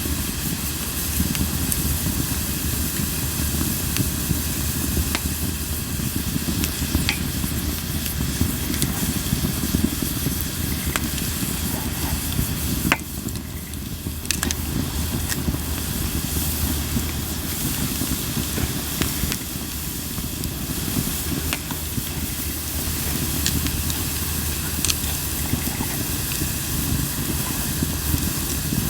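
Japanese linden (shinanoki) firewood burning in an open campfire: a steady low rush of flame with scattered sharp pops and crackles.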